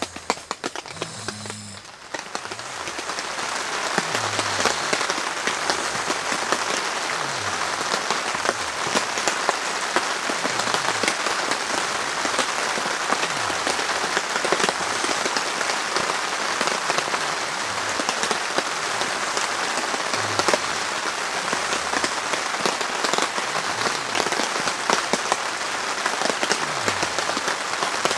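Steady rain falling, with many fine drop impacts on a surface; it swells up over the first two seconds and then holds steady.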